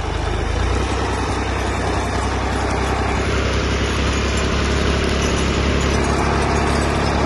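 Tractor engine running steadily, with a deep, constant drone.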